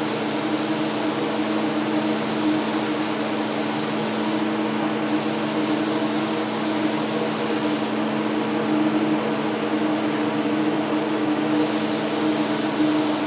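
Compressed-air paint spray gun hissing as it sprays primer in passes, cutting off briefly about four seconds in and for a few seconds past the middle, then spraying again. A paint exhaust fan hums steadily underneath.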